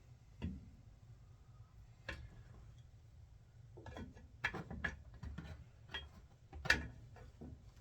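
Irregular clicks and knocks of small objects being handled and set down, about ten of them, bunched a little past the middle with the loudest near the end.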